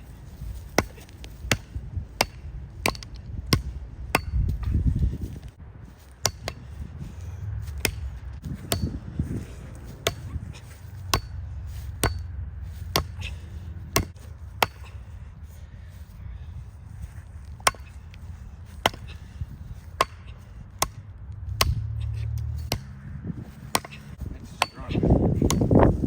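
A 3.5-pound Truper axe striking die-cast toy cars over and over, in a steady run of sharp blows about one every 0.7 seconds.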